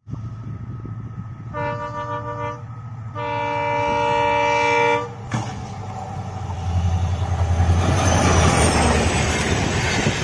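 Indian diesel locomotive sounding its multi-tone horn twice, a one-second blast and then a longer one, as it approaches. The passenger train then passes close by with a deep rumble and a rising rush of wheel and coach noise, cut off suddenly at the end.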